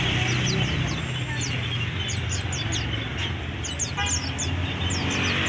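Many caged songbirds chirping at once: a quick, continuous run of short, high, falling chirps over a low steady hum.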